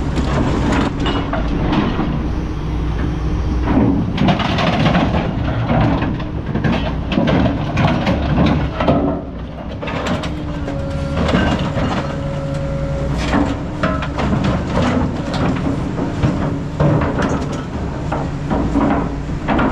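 Heavy hydraulic scrap shear at work on aluminum scrap: a diesel machine runs steadily under repeated metal clanks, creaks and scraping as the jaws bite and the piece shifts, with a brief squeal of metal about halfway.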